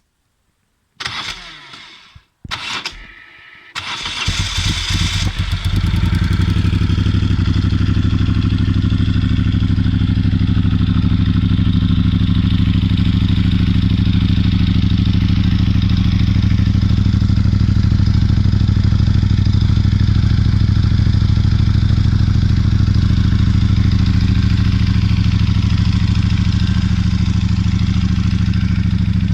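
Moto Guzzi V11 Scura's air-cooled transverse V-twin with Mistral exhaust silencers being started: the starter turns it over in a few short bursts, the engine catches about four seconds in and settles into a steady idle.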